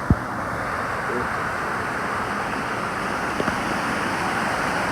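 Steady rushing of creek water tumbling into rocky pools below. A single sharp knock sounds just after the start.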